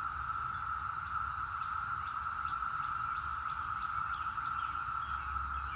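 Chorus of many cicadas droning steadily on one even, high note, with no break.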